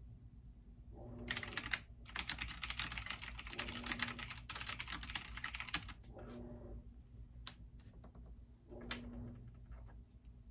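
Computer keyboard typing: a fast run of keystrokes for about five seconds, then a few scattered keystrokes. Underneath, a washing machine runs its wash cycle, its motor humming in short spells every two to three seconds over a steady low rumble.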